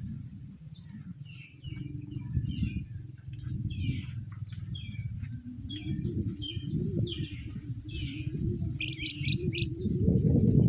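Green leafbirds (cucak ijo) calling with short, quick chirps, a fast run of several together near the end. Underneath runs a louder low, rough background sound.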